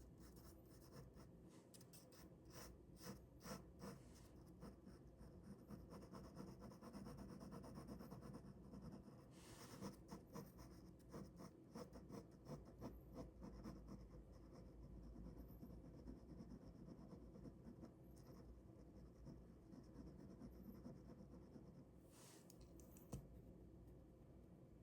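Faint ballpoint pen drawing on paper: quick runs of short scratchy strokes, with a couple of longer strokes along the way.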